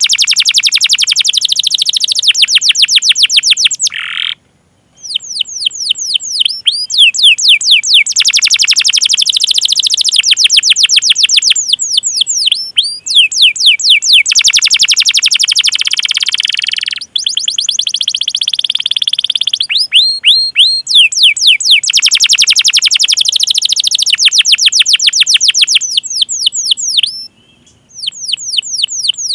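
Domestic canary singing: long rolling trills of rapid, repeated falling notes alternating with slower runs of separate chirps. The song breaks off in two short gaps, about four seconds in and near the end.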